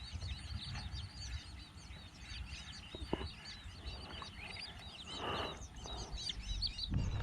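Many small birds chirping rapidly and continuously in a dense chorus, with a low rumble underneath.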